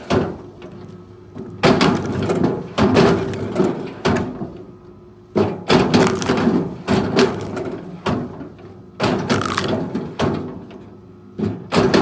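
A heavy machine's engine running steadily while wood is handled, with about eight loud cracks and thuds a second or so apart, each dying away.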